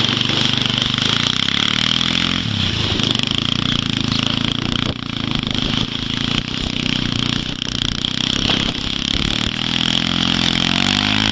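Quad bike engine running under load, its pitch rising and falling as the throttle is opened and eased off, with a steady high hiss over it.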